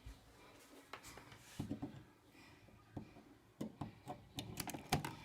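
Irregular light clicks and knocks, a dozen or so scattered and bunched most thickly in the second half, like objects being handled in a small room.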